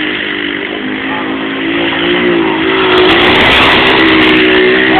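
Pit bike engine running with a steady buzz that wavers slightly in pitch. It picks up and gets a little louder about two and a half seconds in.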